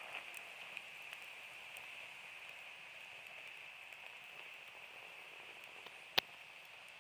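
Small wood campfire crackling softly over a steady hiss, with scattered light ticks and one sharp loud pop about six seconds in.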